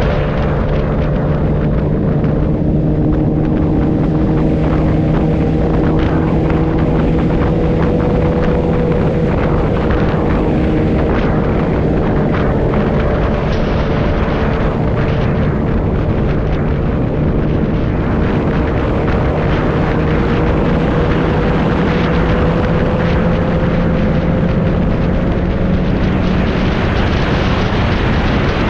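Motorcycle engine running at a steady cruise, its pitch holding nearly constant, under a continuous rush of wind and road noise.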